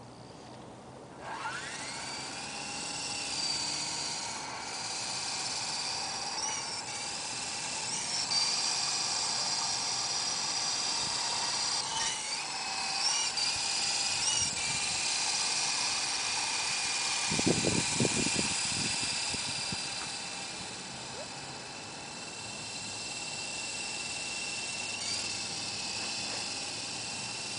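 Electric motors and rotors of a 28-inch metal-framed coaxial fixed-pitch RC helicopter spinning up about a second in, then a steady high whine that rises and dips in pitch with the throttle. A few low thumps come about two-thirds of the way through.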